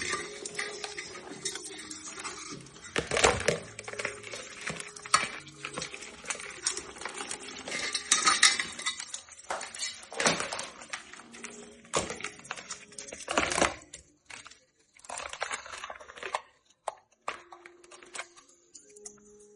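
Metal cookware clattering: irregular clinks, knocks and scrapes of a pot and utensils, with quiet background music under them.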